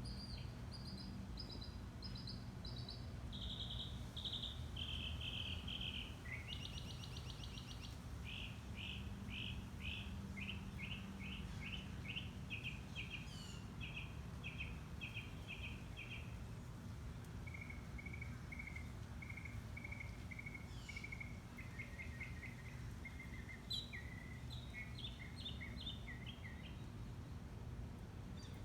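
Songbirds singing, a continuous string of short chirping notes repeated in quick runs, each run at its own pitch, over a steady low background rumble.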